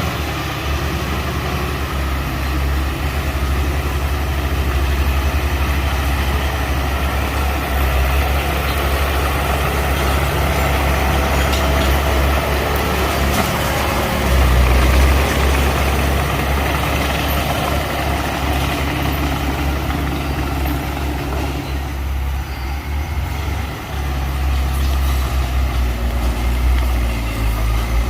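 Heavy diesel engine of earthmoving machinery running steadily, with a brief dip in level near the end.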